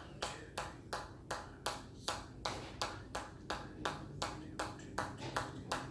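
Rapid, evenly timed hammer strikes, about three a second, each a sharp click with a brief ring, kept up as a steady counted run of repetitions.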